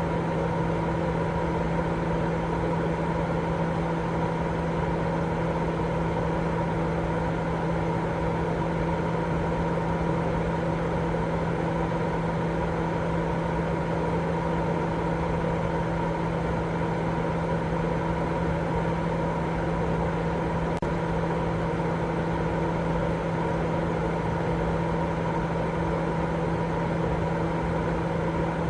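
Continuous sleep-aid noise track: a steady, even noise, strongest in the low and middle range, with a low steady hum and a couple of fainter steady tones above it, unchanging throughout.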